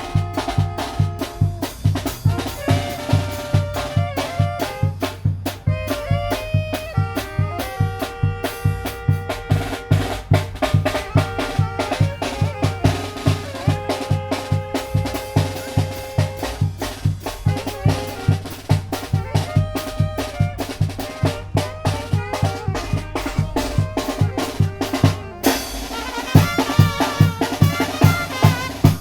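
Tamborazo band playing: brass carries the melody in held notes over a steady beat from the tambora bass drum and snare. About 25 seconds in, the sound changes abruptly.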